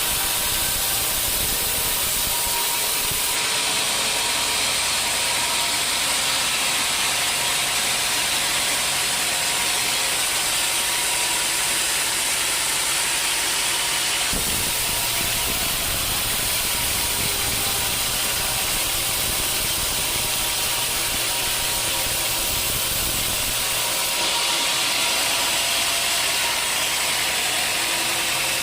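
Sawmill saw running and cutting through dry teak: a steady loud hiss of the blade in the wood over the hum of the machine. The sound shifts in character about 3, 14 and 24 seconds in.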